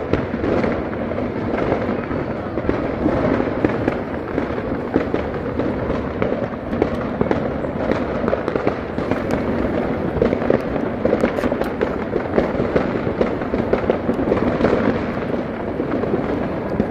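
Many fireworks and firecrackers going off at once in a continuous barrage: a dense, unbroken crackle of bangs and pops with no pause.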